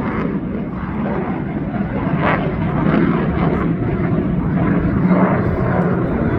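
An aeroplane's engine running steadily overhead, a continuous drone with a low hum.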